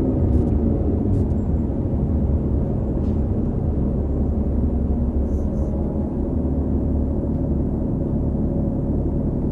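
2018 New Flyer XD40 transit bus drivetrain, a Cummins L9 diesel and Allison B3400xFE automatic transmission, running steadily: a low rumble with a steady ringing drone layered over it. The drone is the odd noise the uploader attributes to the transmission bearings, an issue shared by several buses of this series.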